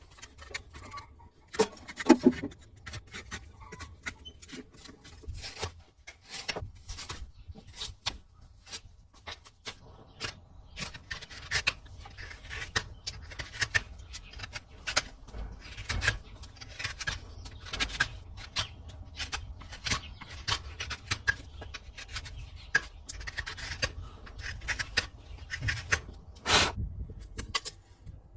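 Farrier's tools working a horse's hoof: many irregular sharp clicks and short scraping strokes as the hoof horn is cut and pared.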